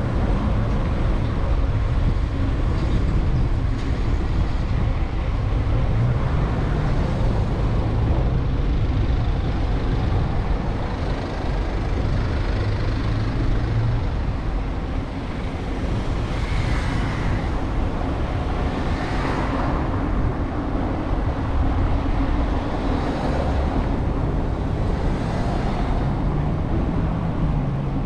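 City street traffic heard from a moving bicycle: a steady wash of road noise, with vehicles passing close twice a little past halfway.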